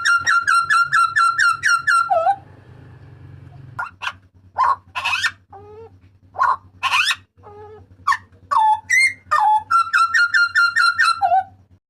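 Papuan butcherbird (jagal papua) calling loudly. A fast series of repeated ringing notes ends in one down-slurred note about two seconds in. After a short lull come loud, sharp, sweeping whistled notes, and the fast repeated series returns near the end.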